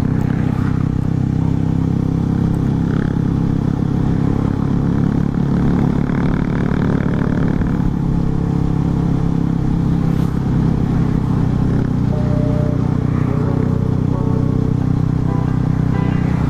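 Honda CBR150R's single-cylinder four-stroke engine running at a steady cruise, its engine note holding an even pitch throughout.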